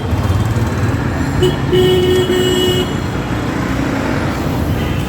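Road traffic running with a steady rumble, and a vehicle horn sounding once and held for over a second, starting about one and a half seconds in.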